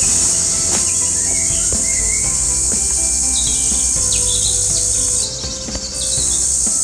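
A loud, steady chorus of insects in summer vegetation, with a few short bird chirps over it; the insect sound dips briefly about five seconds in.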